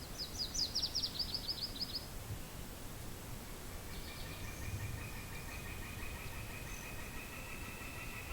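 A bird sings a quick run of about ten short, high notes, over a low wind rumble. About four seconds in, a steady, high, even trill starts and carries on.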